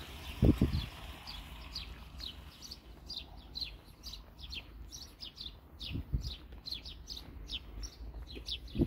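Small birds chirping rapidly, many short downward-sliding chirps, thickening about three seconds in. A few pairs of low thumps come about half a second in, around six seconds in and near the end.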